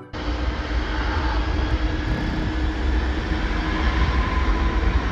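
Jet cargo plane taking off, its engine noise a dense low rumble with faint steady tones that grows slowly louder.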